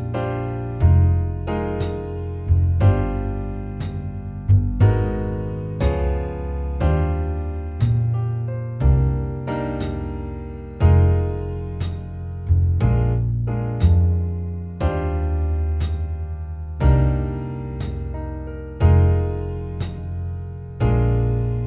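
Jazz backing track of a ballad at a slow 60 beats a minute: piano chords struck about once a second over a bass line that moves to a new low note on each beat, with no melody on top.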